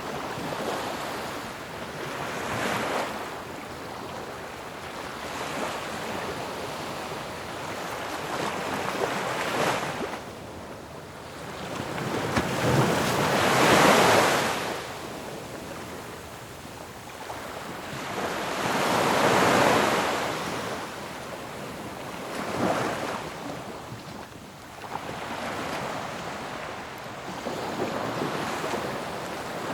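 Ocean waves breaking on a shore, a continuous wash of surf that swells into a crash every few seconds, the loudest about midway through and again a few seconds later.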